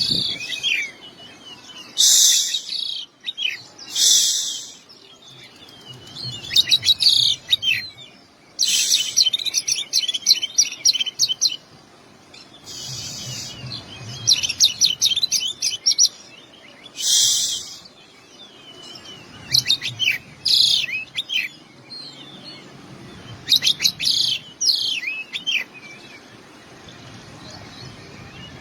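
Oriental magpie-robin (kacer) singing loud phrases of a second or two, with rapid trills and whistles broken by short pauses. The song is full of 'isian', calls of other birds that it has learned to mimic.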